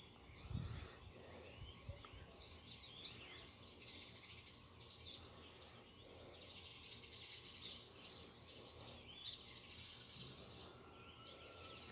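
Faint chirping of small birds, many short calls scattered throughout.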